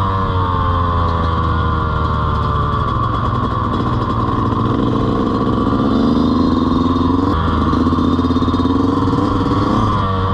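Dirt bike engine running under changing throttle; its pitch falls early on and climbs again near the end.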